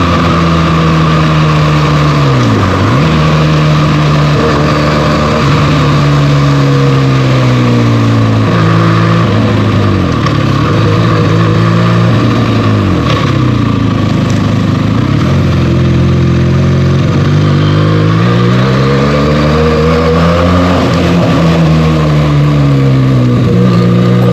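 Benelli TNT 300's 300 cc twin-cylinder engine through its stock exhaust while riding. The pitch rises under acceleration, then drops sharply and climbs again several times as the rider rolls off and shifts gears.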